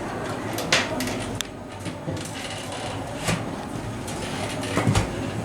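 A few sharp knocks and clicks over a steady low hum and background noise, with a heavier thud near the end.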